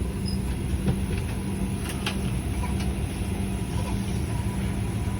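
Steady low hum of an airliner cabin on the ground before departure, with an even drone and a few faint clicks.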